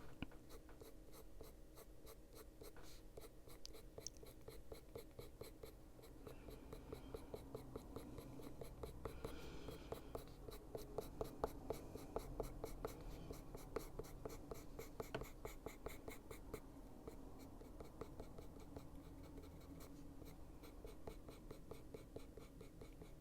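Faber-Castell Polychromos-style coloured pencil — here a Caran d'Ache Luminance pencil in Sepia 50% — scratching across paper in quick, light, repeated strokes.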